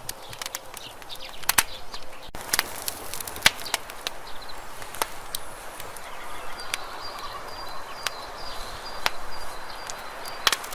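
Wood campfire crackling and popping: irregular sharp pops and snaps over a soft steady hiss of burning. A faint thin high whistle runs for about two seconds past the middle.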